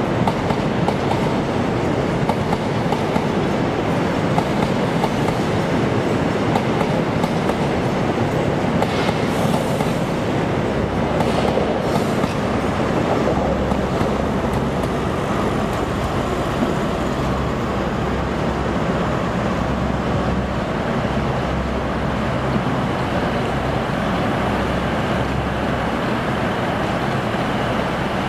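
InterCity 125 (HST) train running past in the station: the Mark 3 coaches rolling with a clickety-clack over the rail joints. About ten seconds in, the deep rumble of the rear Class 43 diesel power car joins in.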